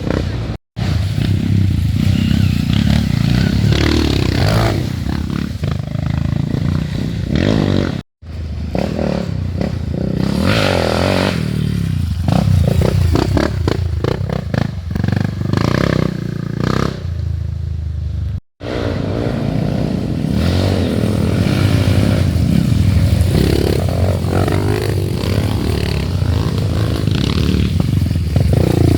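Dirt bike engines revving hard in mud, the pitch rising and falling with the throttle, with clattering and scraping. The sound breaks off for an instant three times.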